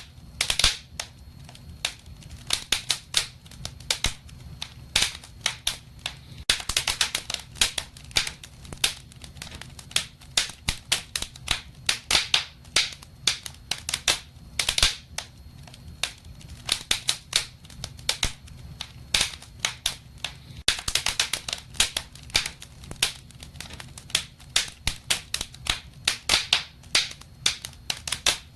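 Wood fire in a fireplace crackling: many irregular sharp pops and snaps, in thicker flurries at times, over a low steady background.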